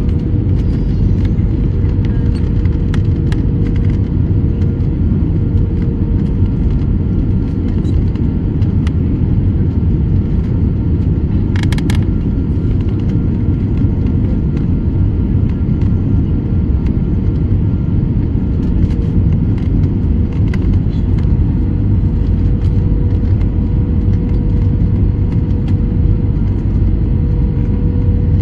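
Steady airliner cabin noise: a heavy low rumble from the engines and airflow, with a constant whine. One short, brighter sound cuts in briefly about twelve seconds in.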